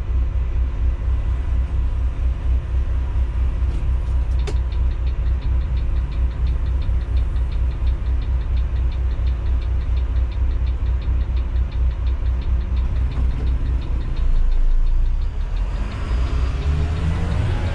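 An intercity coach's diesel engine running with a steady low rumble and a fast, even ticking through the middle stretch. Near the end the engine pitch rises as the coach pulls away.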